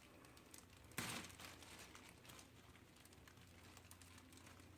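Near silence: room tone, with one sharp knock about a second in and a few faint clicks.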